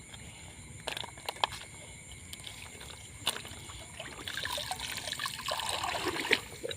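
Water trickling and sloshing, with a few sharp knocks in the first few seconds; the splashing gets denser and louder about four seconds in.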